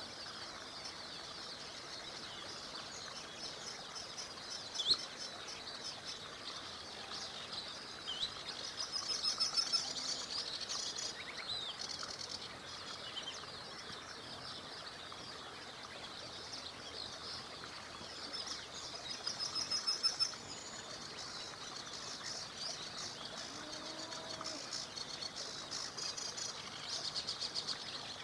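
Several small birds singing: rapid high trills that come in bouts about every ten seconds, among scattered short chirps and whistles, over a steady hiss of flowing river water.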